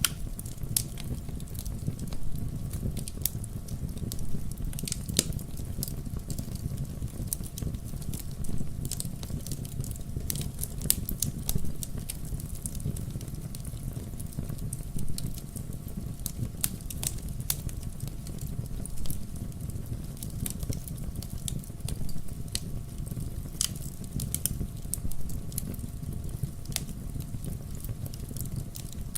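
Wood fire burning in a fireplace: logs crackling and popping in irregular sharp snaps over a steady low rumble of flame.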